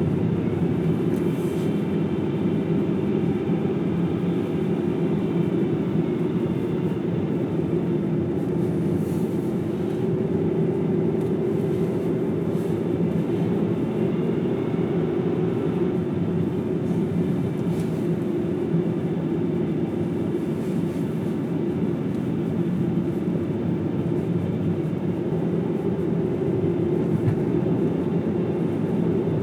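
Steady road noise of a car driving: tyre rumble and engine at an even pace.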